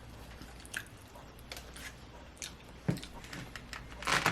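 Chewing and mouth sounds of people eating: scattered short wet clicks and smacks, with a louder cluster of them near the end.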